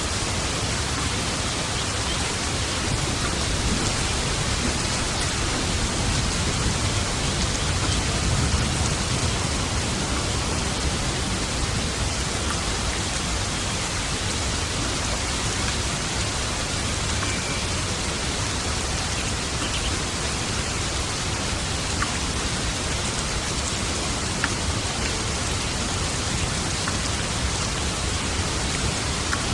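Steady, dense rainfall, with a low rumble of distant thunder swelling and fading in the first third.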